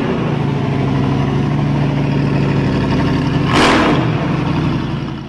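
A steady, loud engine-like drone that fades in and fades out, with a brief whoosh about three and a half seconds in.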